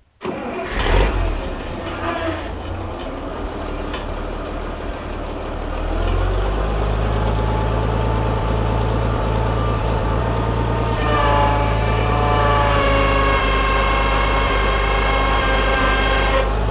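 A Farmall 460 tractor's engine running: a steady low drone sets in about six seconds in, and a higher whine joins about two-thirds of the way through.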